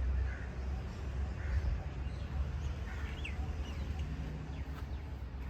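A steady low rumble with a few faint bird chirps, the clearest about three seconds in.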